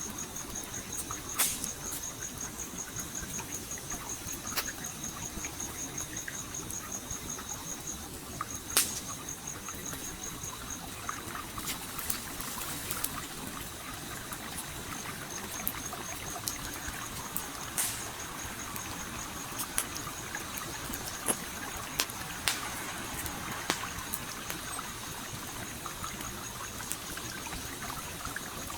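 Campfire crackling with sharp pops every few seconds over a steady flowing stream. An insect trills throughout in a high, rapidly pulsed tone that stops for a few seconds in the middle and then resumes.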